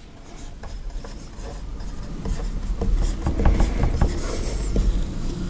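Handwriting on a board: light rubbing strokes with small scattered taps, growing a little louder after about two seconds.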